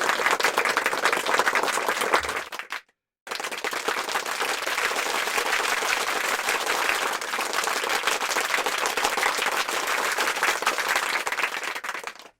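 Crowd applause sound effects, two clips in a row: a short burst of clapping that fades out after under three seconds, a moment of dead silence, then a longer stretch of steady crowd applause that cuts off near the end.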